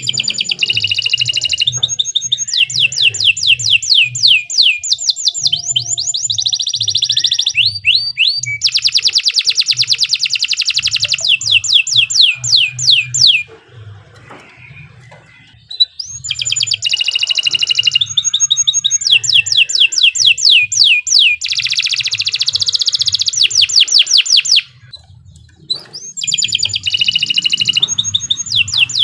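Domestic canary singing a long, vigorous song of rapid trills: fast runs of repeated high notes and sweeping phrases, broken by two short pauses, one around the middle and one near the end. A faint low pulsing runs underneath.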